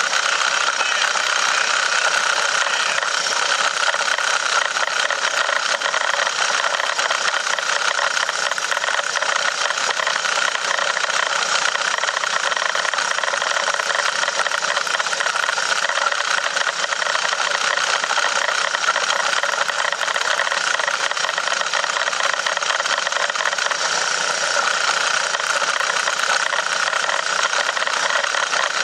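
1917 Ford Model T's four-cylinder side-valve engine running steadily under load, pulling the car up a 9% grade in high gear, heard from the driver's seat.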